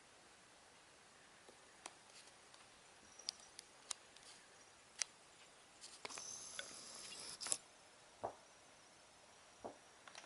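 Cats playing: scattered light taps and clicks, with a scratchy rustle lasting about a second and a half a little past the middle, then two soft thuds.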